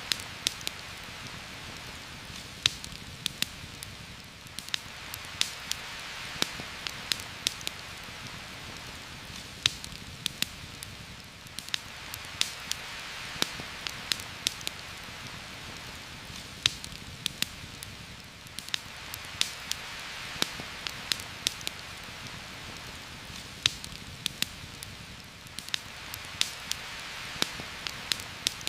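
Steady heavy rain hissing and swelling gently every several seconds, with frequent irregular sharp crackles and pops from a campfire.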